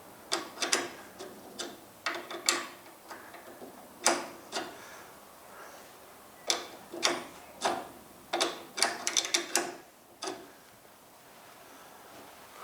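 Irregular sharp metallic clicks and clinks in scattered clusters, the busiest run about eight to ten seconds in. They come from hand tools working on the chain adjustment of the garage door opener, tightening the chain back up.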